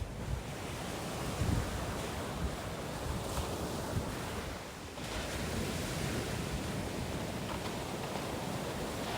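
Sea waves washing in with an even rushing surf, and wind buffeting the microphone.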